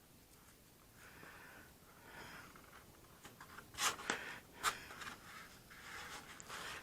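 Faint rustling and a few light taps from hands working balsa strips and tape on the stabilizer, with two or three sharper clicks about four seconds in.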